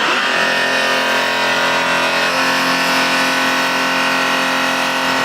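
Diesel mobile steam car washer running with its water gun letting out cold water: a steady, loud machine hum over a hiss of spray.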